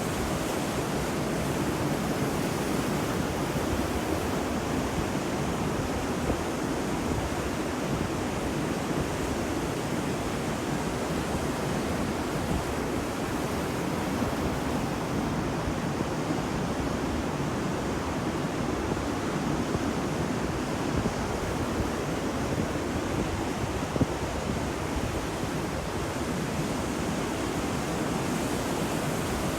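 Ocean waves breaking on a beach: a steady wash of surf with no distinct single crashes.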